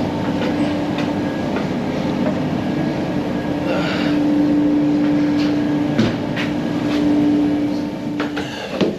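Heavy machinery running steadily, a loud rumble with a constant droning hum and occasional metallic clanks.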